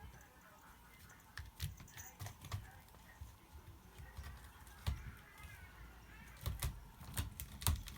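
Cat sharpening its claws on a scratcher: irregular bursts of short, raspy scratching strokes with soft thuds, coming thicker and louder in the second half.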